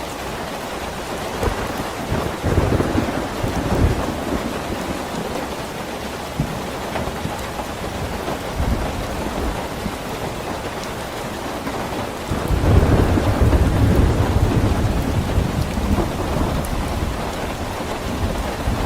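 Steady heavy rain with rolling thunder: a low rumble swells about two seconds in, and a stronger, longer rumble begins about two-thirds of the way through.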